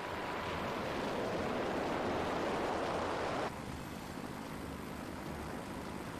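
Steady rushing noise that swells and grows louder, then drops abruptly about three and a half seconds in to a quieter steady rush, with a faint low rumble underneath.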